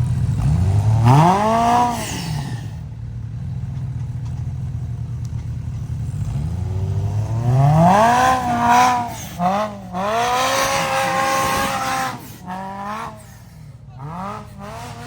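Side-by-side UTV engine idling and revving in repeated bursts: a long rise and hold in the middle, and a few short blips near the end.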